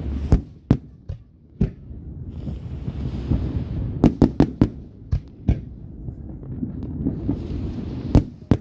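Fireworks going off: scattered sharp bangs, with a quick run of four near the middle, and patches of hissing between them over a steady low rumble.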